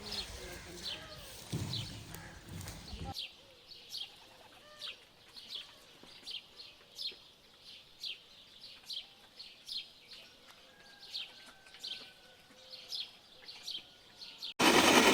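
A single bird calling over and over, a short falling chirp about every two-thirds of a second. Near the end a loud, steady machine-like noise cuts in suddenly.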